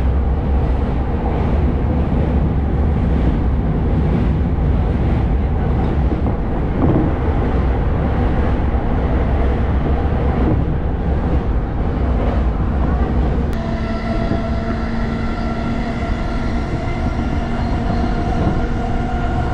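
JR Keiyo Line electric commuter train running, heard from inside the car as a steady, loud rumble of wheels on track. About two-thirds of the way through the deep rumble eases and a steady hum comes in.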